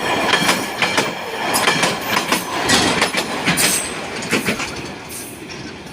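A train running on the rails, its wheels clattering over the track with a thin metallic squeal. The sound fades over the last couple of seconds.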